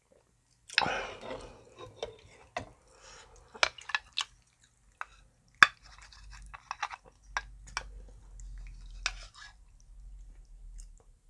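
Close-miked chewing of king-size dumplings in dumpling soup: wet mouth sounds and sharp clicks, with a louder noisy burst about a second in. A faint low hum lies underneath in the second half.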